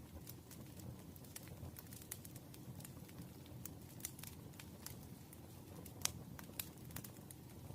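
Campfire crackling: a steady low rumble of burning wood with irregular sharp pops and snaps. The loudest pop comes about six seconds in.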